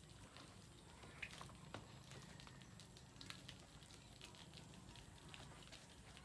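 Near silence: a low steady background hum with faint, scattered clicks and ticks.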